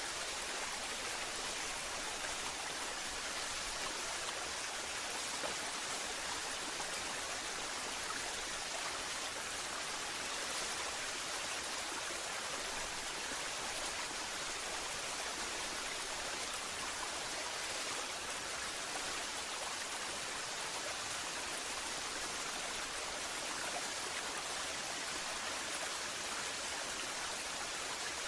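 Steady rushing of falling water from a waterfall, an even, unbroken hiss that does not change.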